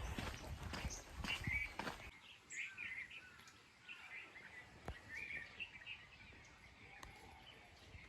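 Small birds chirping faintly in short calls and brief glides. For about the first two seconds a low rumble with a few sharp knocks runs under them, then stops.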